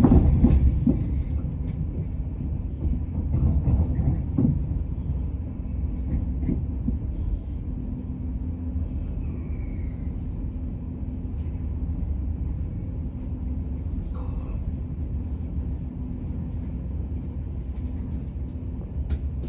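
TransPennine Express passenger train heard from inside the carriage: a steady low rumble. There are a few clicks in the first few seconds, and a steady hum joins about eight seconds in.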